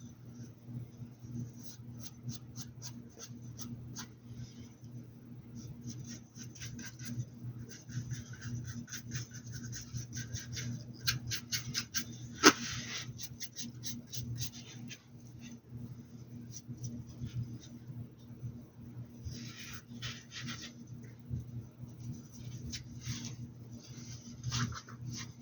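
Paintbrush scratching over the surface of a hat in short runs of quick strokes, with one sharp click about twelve seconds in, over a steady low hum.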